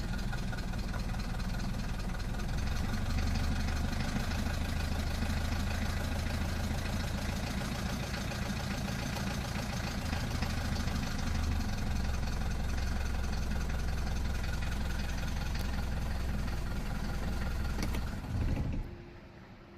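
Mercedes-Benz 220 D's four-cylinder OM615 diesel engine idling steadily, its idle speed set with the dashboard idle-control knob; the engine cuts off near the end.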